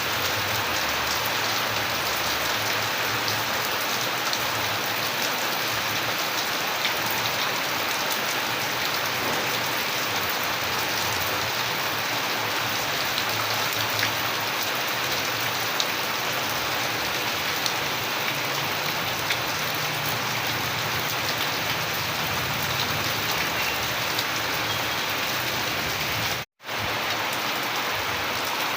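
Steady heavy rain falling, a dense even hiss with individual drops ticking through it. It cuts out completely for a split second near the end.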